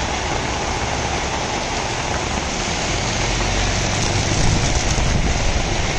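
Heavy rain pouring onto a paved street and pavement, a dense steady hiss, getting louder with a deeper rumble about four seconds in.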